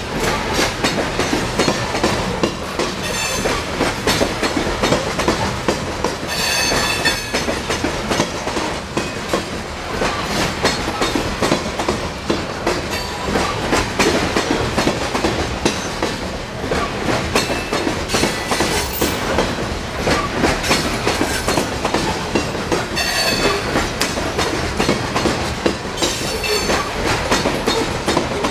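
Freight train of coal hopper cars rolling past close by, the steel wheels clicking steadily over the rail joints under a constant rumble. High wheel squeals come in briefly a few times.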